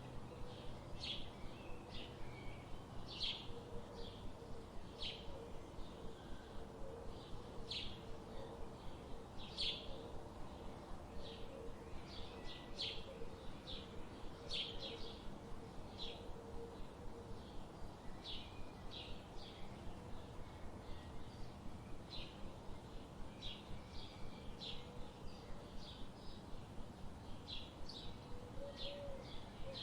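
Forest birdsong: many short, sharp bird chirps in quick succession over a steady background hiss, with a faint, low, wavering call underneath through the middle.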